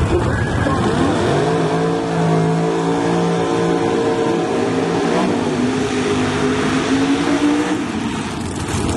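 Drag race car engine under hard acceleration, its pitch climbing steadily, dipping briefly about five seconds in, then climbing again before fading near the end.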